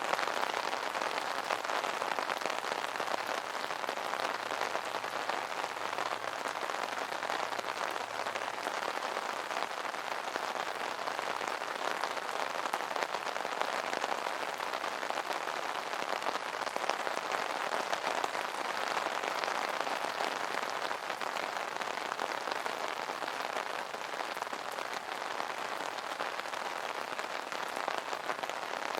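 Steady rain pattering on an umbrella canopy: a dense, even drumming of drops.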